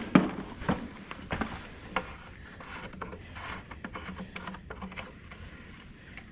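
Handling noise from a lawn mower's oil filler cap and dipstick being worked: several sharp clicks and knocks in the first two seconds, then quieter scattered ticks and rubbing.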